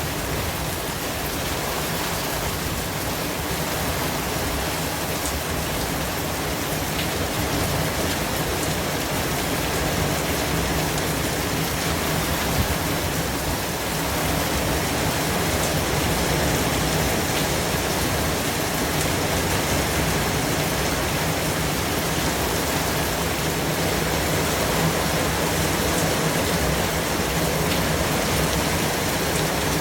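Steady white-noise track: an even, unchanging hiss spread from low to high pitches, with faint scattered ticks that give it a rain-like texture.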